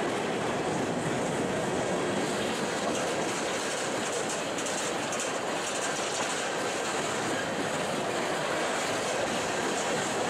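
Empty coal train's gondola cars rolling past close by: steel wheels running on the rail with a steady, unbroken clatter and rumble.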